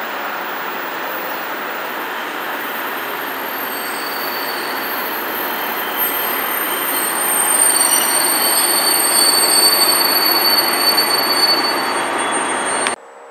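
MÁV class 418 (M41) diesel-hydraulic locomotive hauling a passenger train as it approaches and passes close below. A steady rushing run of engine and wheels grows louder about six seconds in, with high-pitched squealing over it. The sound cuts off suddenly near the end.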